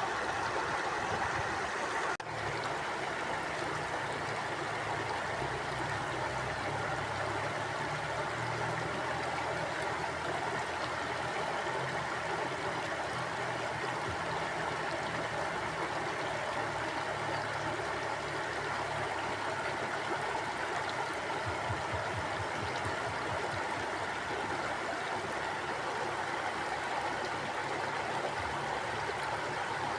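River water flowing steadily over rocks: a continuous rushing and gurgling, with one momentary dip about two seconds in.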